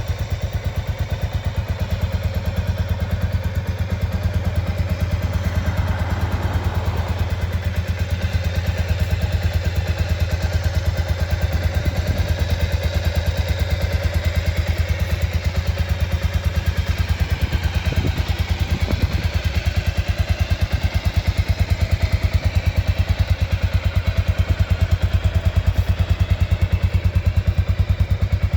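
Honda XBR500's air-cooled single-cylinder four-stroke engine running steadily at idle, each firing pulse heard as an even beat.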